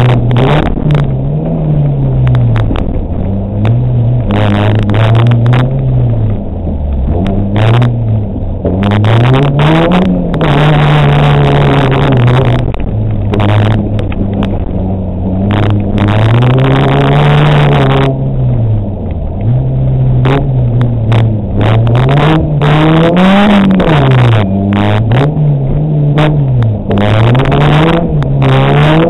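Rally car engine heard from inside the cabin on a stage run, revving hard with its pitch climbing and dropping over and over. Many short knocks and rattles run through it.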